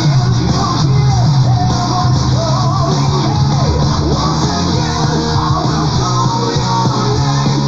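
Power prog metal song playing: distorted guitars, bass and drums under a high melodic lead line that glides up and down.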